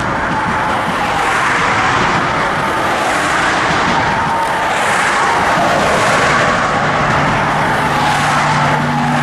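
Empty oil tank cars of a freight train rolling past at close range: a steady rushing noise of steel wheels on the rails with a faint thin squeal.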